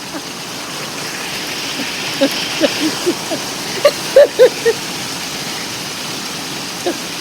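Heavy rain pouring down in a steady hiss. Through the middle come a few short pitched sounds, two loud ones about four seconds in.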